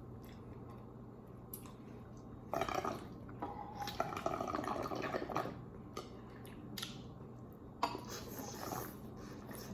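Soft, wet liquid sounds from ramen broth, in three short spells over a low steady hum.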